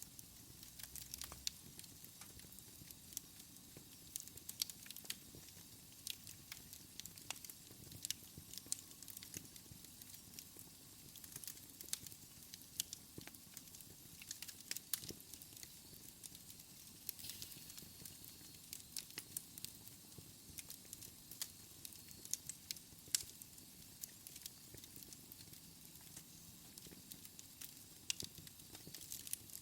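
Wood fire in a fireplace crackling: frequent irregular sharp pops and snaps over a soft hiss.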